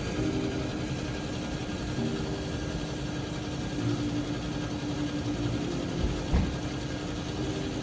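Yamaha JetBlaster Pro personal watercraft's three-cylinder engine running at low speed, its pitch stepping up and down slightly with the throttle, over a steady rush of wind and water. A single low thump about six seconds in.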